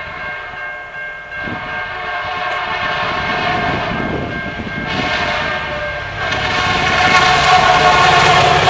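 VIA Rail F40PH-2 diesel locomotives approaching with the horn sounding, getting steadily louder over the last few seconds.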